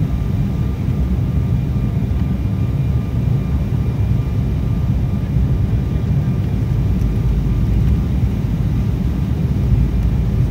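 Steady cabin noise inside an Embraer E190 airliner in flight: a low, even rumble of its General Electric CF34 turbofans and the airflow, with a faint steady whine above it.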